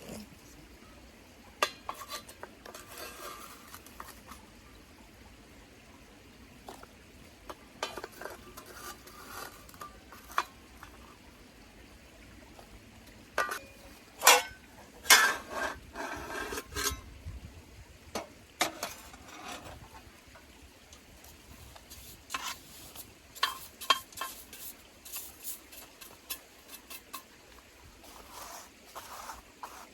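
Metal camping gear being handled: irregular clinks, knocks and short scrapes of metal on metal, busiest about halfway through.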